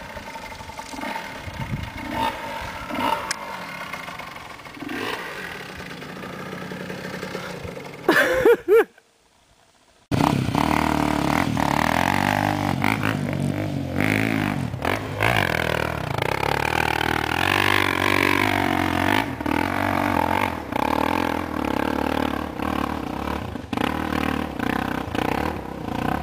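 Dirt bike engine revving hard as the bike climbs a steep trail slope, its pitch rising and falling with the throttle. The sound cuts out briefly about nine seconds in and comes back louder and fuller.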